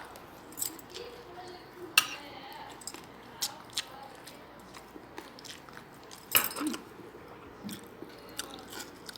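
Close-up mouth sounds of a person eating rice and tilapia: chewing and wet smacks, with a few sharp clicks scattered through, the loudest cluster about six seconds in.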